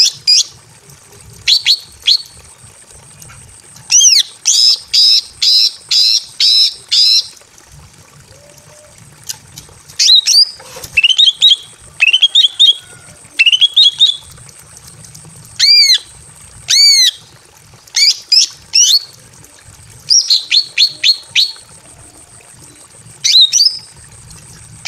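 Female green leafbird (cucak ijo) calling in short bouts of sharp, high chirps: a rapid run of about six notes, rising notes, and arched squawk-like notes in pairs, with pauses between. These are the calls of a hen in breeding condition calling to a male.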